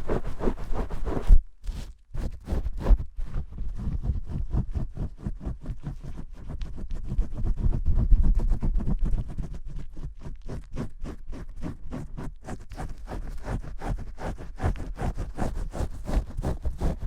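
Fingers scrubbing shampoo lather hard and fast for ASMR: a quick, even run of rubbing and scratching strokes, several a second. It pauses briefly about two seconds in and then goes on.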